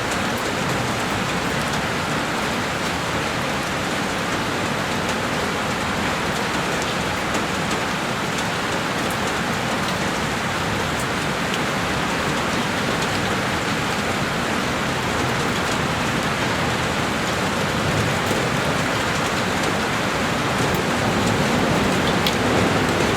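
Heavy rain falling steadily on a window, an even wash of noise with scattered drop ticks, growing slightly louder near the end.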